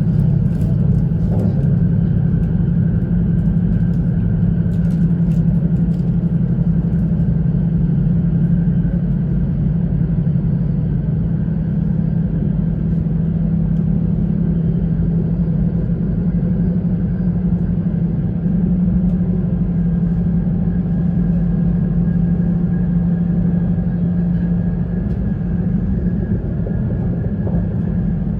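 E2 series Shinkansen train running, heard from inside the passenger cabin: a steady rumble with a low hum throughout, and a few faint clicks in the first few seconds.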